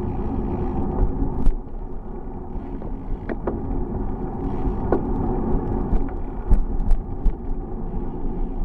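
Steady low rumble of a bicycle ride, tyres on the road and wind on the microphone, with a few sharp clicks and rattles scattered through it.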